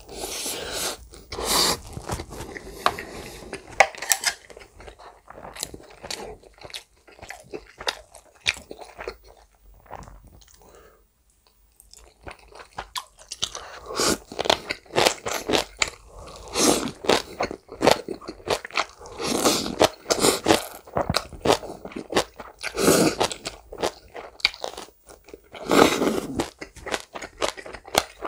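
Close-miked chewing of chicken mayo rice and green onion kimchi: crunching and wet mouth sounds, with a short lull about ten seconds in before the chewing picks up again.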